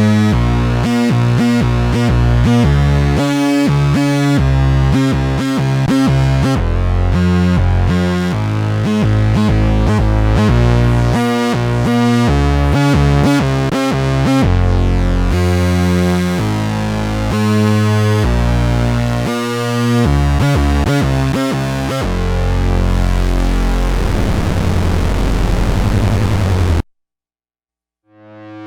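Sequential Prophet-10 rev 4 analog polysynth playing a preset, dry with no effects: a busy run of quick notes and chords over a deep bass that settles into held tones and then cuts off suddenly near the end. After a short silence a new patch swells in.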